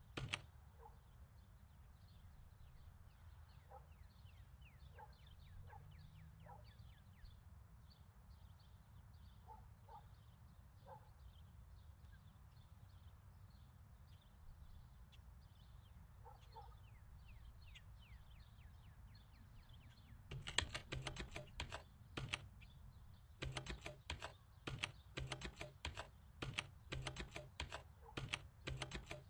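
Low room hum with faint high chirps for about twenty seconds, then fast typing on a computer keyboard, rapid clicking keystrokes in quick runs, through the rest.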